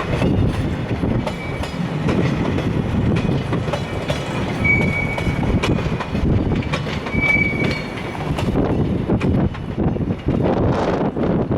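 Container wagons of a freight train rolling past slowly on arrival, with a steady rumble and wheels clacking over rail joints. Two short high-pitched wheel squeals come about five and seven seconds in.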